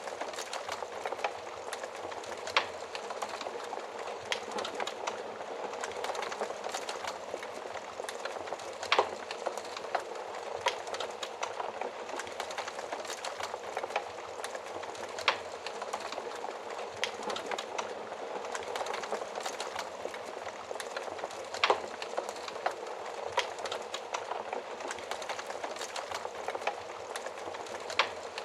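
Fire crackling in an oven fireplace: a steady hiss of flames with scattered sharp pops every second or so. The loudest pops come about nine, fifteen and twenty-two seconds in.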